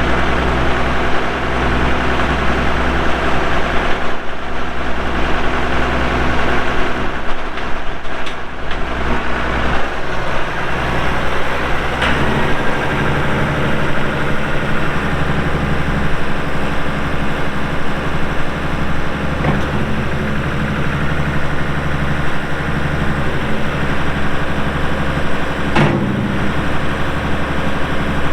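2002 Challenger MT535 tractor's diesel engine running steadily; about twelve seconds in its note changes, with a click, and there is a brief knock near the end.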